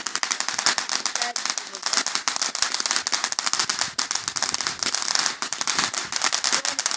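Fireworks crackling: a dense, continuous stream of rapid sharp pops.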